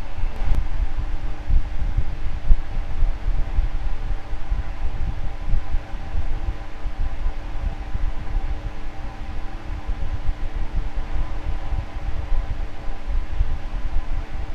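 Electric fan running steadily: a constant hum of several tones over an uneven low rush of moving air.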